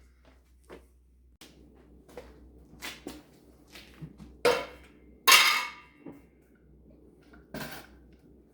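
A run of small clicks and knocks from hardware being handled while an electrical wall outlet is taken out, with two louder clattering knocks about four and a half and five and a half seconds in, and another near the end.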